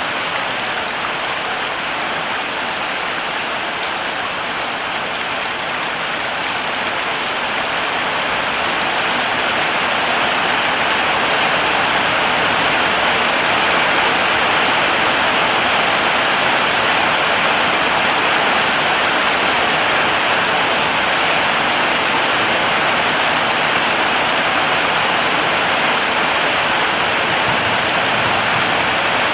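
Heavy rain pouring steadily, an even hiss of countless drops, swelling a little louder about a third of the way in and then holding.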